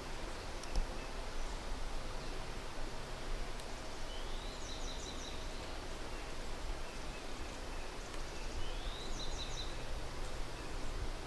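A songbird sings the same short, high song twice, about four and a half seconds apart: a quick rising note followed by a rapid run of repeated notes. A steady outdoor background hiss lies under it.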